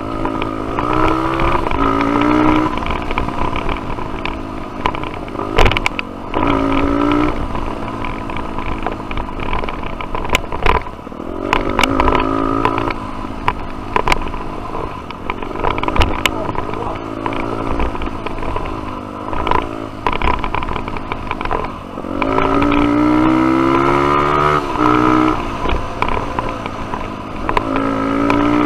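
Single-cylinder dirt bike engine under way, revving up and easing off again and again, its pitch climbing on each pull and dropping between, with a long climb near the end. Scattered sharp knocks and clatter.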